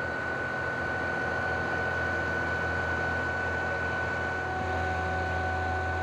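Concrete boom pump truck running its engine and hydraulics as the boom folds: a steady low hum with a steady high whine over it. About four and a half seconds in the hum gets louder and a second, lower whine joins.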